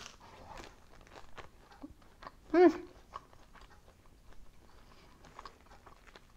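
Crisp buttered toast crunching as it is bitten and chewed, in a string of small crackles. About two and a half seconds in comes one short, louder hummed "mm".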